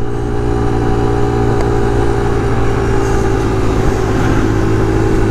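Kawasaki KLX140's small air-cooled single-cylinder four-stroke engine running at a steady, unchanging speed.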